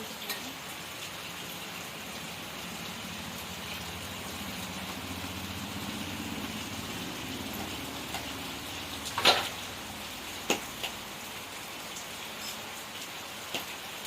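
Steady rain, with a low hum swelling and fading in the middle and a few sharp knocks; the loudest knock comes about nine seconds in.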